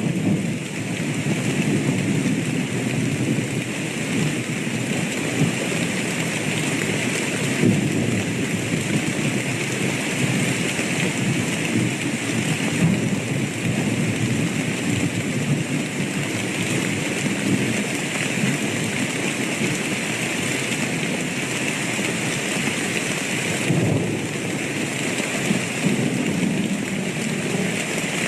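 Steady rain falling, with thunder rumbling low underneath and swelling at times.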